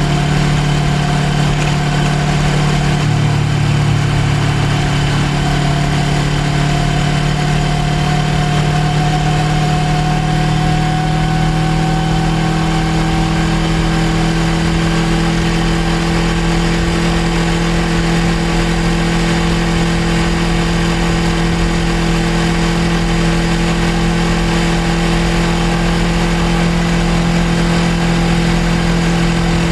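Suzuki GSX250R's 250 cc parallel-twin engine running steadily, its pitch creeping slightly upward over the first half and then holding level.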